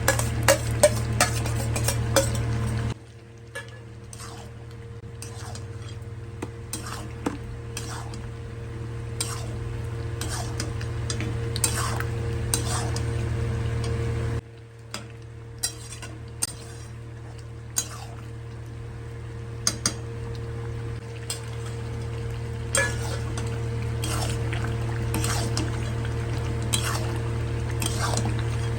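A spatula stirring and scraping chicken and spice masala in a kadai while it fries, with frequent sharp clicks of the spatula against the pan over a steady low hum. The background drops suddenly twice, about three seconds in and again about halfway.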